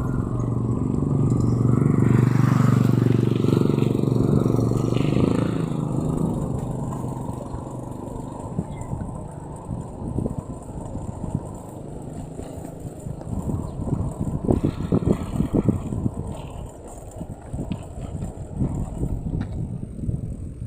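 Road noise and wind buffeting the microphone during a bike ride, with gusty low rumbles. It is loudest for the first few seconds, and there is a stronger run of gusts later on.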